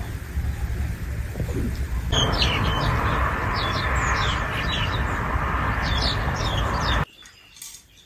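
Birds chirping: a string of short, high, falling chirps over a steady hiss, starting about two seconds in and cutting off abruptly near the end. Before the chirping there is a low rumble.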